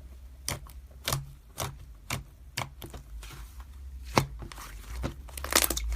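Slime being pressed and poked by hand, giving sharp clicks and pops about twice a second, with a denser crackling cluster near the end.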